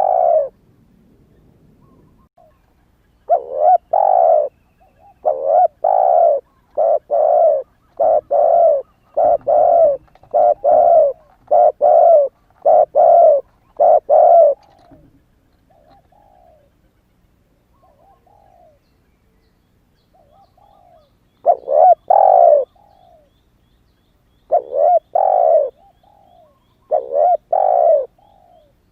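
A young spotted dove just coming into its coo, calling in a fast run of about a dozen loud repeated coo notes, then pausing with a few faint short notes before starting a second, more spaced-out run near the end.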